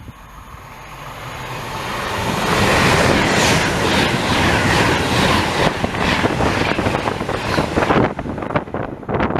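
A train passing through a station: its noise builds over the first few seconds, stays loud with a rhythmic clatter of wheels over the rails, then drops away suddenly near the end as it goes by.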